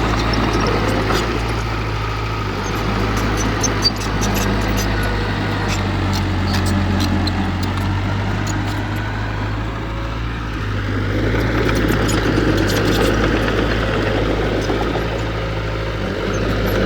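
Heavy diesel engine of earthmoving equipment running steadily at a low pitch, with scattered light clicks over it.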